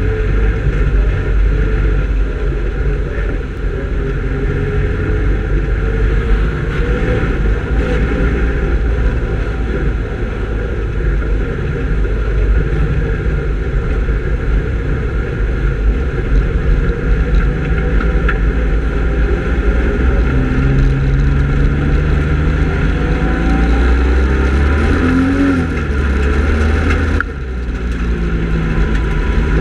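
Speedway race car engines running hard throughout, the engine note rising and falling as the cars accelerate and lift. There is a brief dip in level about 27 seconds in before the note picks up again.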